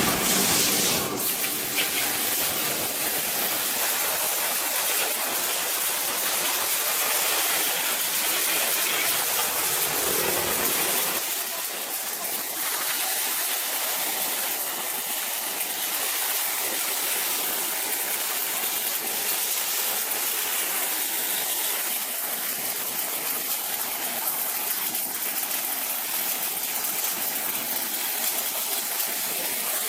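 A steady, hissing spray noise, strongest in the high range; its deeper part falls away about eleven seconds in.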